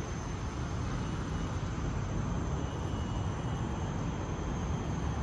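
Steady rainforest ambience: a thin, even, high-pitched insect drone over a low rumble, with no change in its course.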